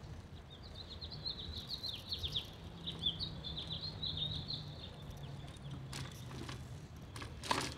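A small songbird chirping in a rapid run of short, high, falling notes for several seconds, over a low steady hum, with a few sharp knocks near the end.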